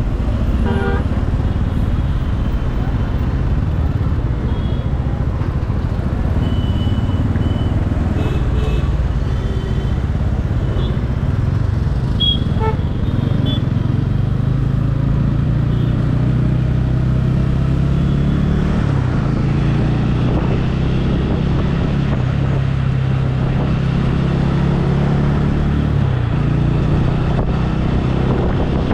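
Motorcycle engine running at riding speed, with road and wind noise on the helmet microphone. The engine note changes twice in the second half.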